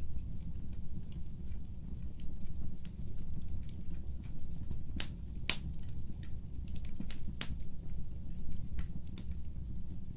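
Fireplace fire crackling: scattered small crackles over a steady low rumble, with three sharper pops around the middle.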